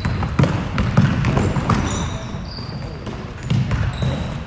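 A basketball being dribbled on a gym floor, thumping every half-second to second, with sneakers squeaking during youth basketball play.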